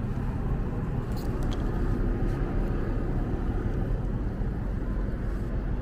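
Steady low rumble of a running car engine, with a few light clicks about a second in.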